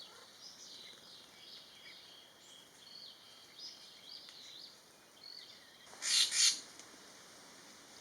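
Wild birds calling: faint, varied chirps and twitters, and about six seconds in a loud, harsh two-part call.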